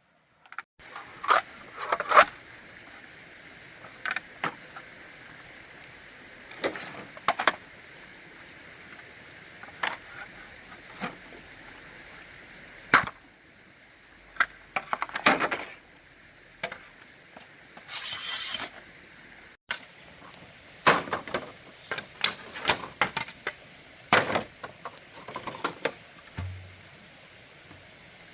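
Irregular sharp knocks and strikes of hand-tool work, a few seconds apart and in short clusters, with a longer scraping burst about two-thirds of the way in. A steady high insect drone runs underneath.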